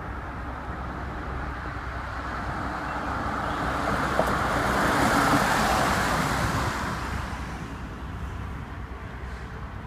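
A road vehicle passing by: its engine and tyre noise swells to a peak about five seconds in, then fades away.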